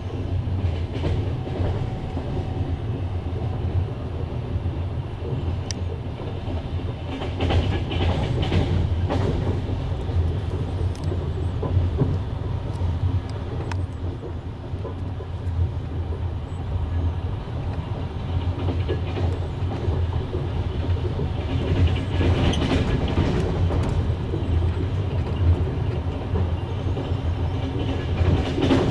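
Passenger train running on the rails, heard from one of its carriages: a steady low rumble with wheels clattering over rail joints. There are louder stretches of rattling about eight seconds in and again around twenty-two seconds.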